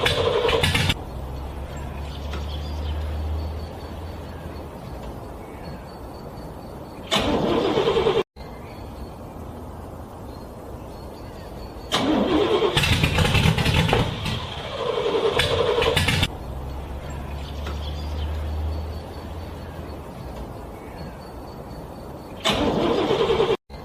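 A car engine being cranked over in freezing cold, in loud bursts several seconds apart with quieter rumbling stretches between them. The sound drops out abruptly twice.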